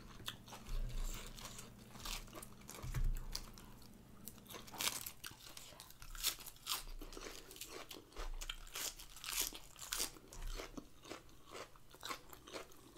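A person biting and chewing crisp fresh iceberg lettuce: repeated, irregular wet crunches.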